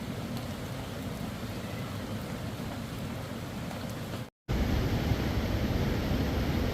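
Steady rushing noise of heavy rain and water. About four seconds in it cuts out for a moment, then comes back louder with more low rumble.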